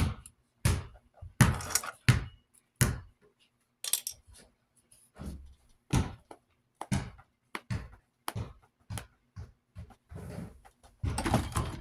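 Small screws dropped into the fan's cap and fan parts handled on a desk: an irregular string of sharp clinks and knocks, with a denser scraping, rummaging stretch near the end.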